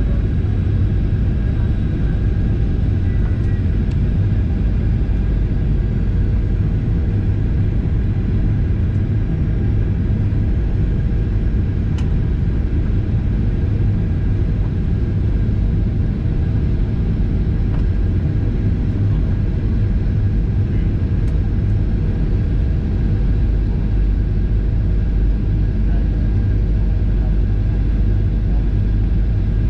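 Steady low rumble of a Boeing 737-800's CFM56 engines and airflow, heard inside the cabin during descent, with faint steady tones above it.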